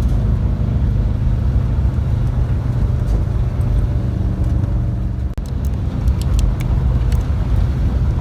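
VW Westfalia bus engine running steadily while the bus is driven, the new engine still being broken in, with a brief break in the sound about five seconds in.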